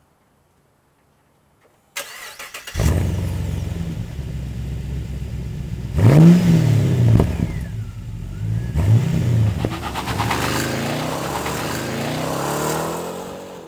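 Pontiac G8 GT's 6.0-litre V8 cranked by the starter about two seconds in, catching with a flare and settling to idle, then revved twice, each rev rising and falling in pitch, before it cuts off sharply at the end.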